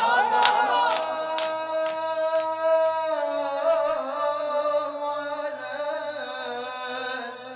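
Male voices of a Shia 'shur' lament holding a long drawn-out sung note after the refrain. During the first three seconds or so it is struck through with rhythmic chest-beating slaps (latm), about two a second, which then stop while the note carries on.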